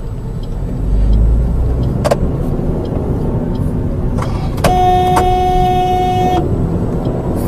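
A car moving along with steady engine and road rumble. Past the middle, a car horn sounds one held, steady tone for just under two seconds.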